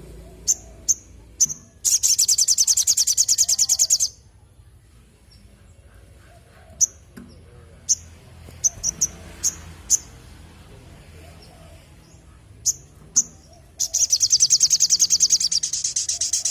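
Sogon (little spiderhunter) calling: sharp single high chips, then a fast trill of rapidly repeated notes lasting about two seconds. More scattered chips follow, then a second, longer trill near the end.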